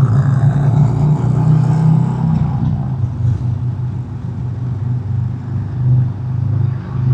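Harley-Davidson Road King's Milwaukee-Eight V-twin running steadily at road speed under the rider, a low, even drone that eases slightly around the middle and then comes back up.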